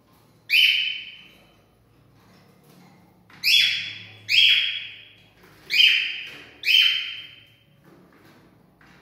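Cockatiel calling: five loud, sharp calls, each starting suddenly and trailing off, one about half a second in and four more in close succession from about three and a half to seven seconds in.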